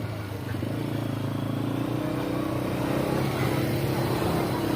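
Victory MRX 150 motorcycle's single-cylinder engine running under way, its pitch and level rising gradually as the bike picks up speed.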